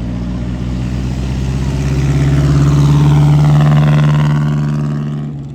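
Car engine running at a steady note as the car approaches and passes close by. It is loudest about three and a half seconds in, then cuts off sharply near the end.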